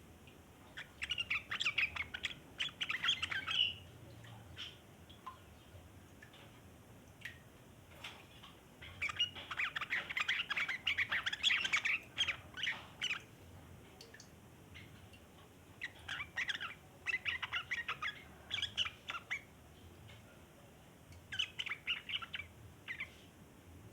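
Yellow-vented bulbul (trucukan) chattering in long, rapid bouts of twittering notes, four bouts with short pauses between them.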